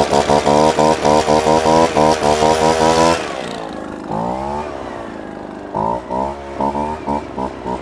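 EB-260 engine leaf blower having its throttle blipped in a quick rhythm, about five revs a second, imitating a motorcycle gang's 'call'. About three seconds in it drops back to a lower running with one rev up and down, then the rhythmic blipping starts again near the end.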